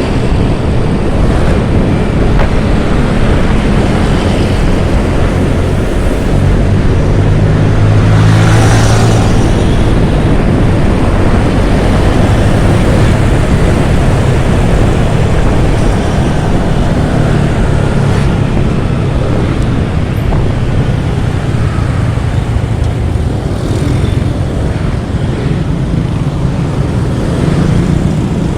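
Motorcycle ride heard from the rider's microphone: steady wind rush over the mic with the engine running underneath. A louder low engine drone swells about seven seconds in and eases off by about eleven seconds.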